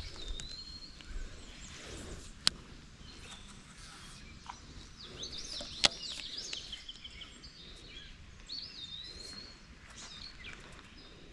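Small birds chirping in short, rising and falling phrases over low outdoor background noise, with two sharp clicks, one a couple of seconds in and one about halfway.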